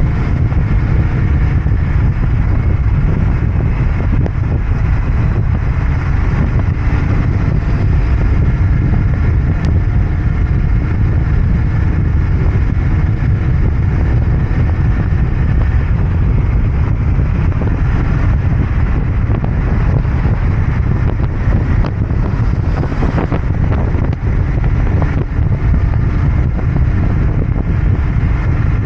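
Royal Enfield Interceptor 650's parallel-twin engine and exhaust running steadily under way, heavy and low, with the pitch drifting a little with speed. Wind buffets the microphone.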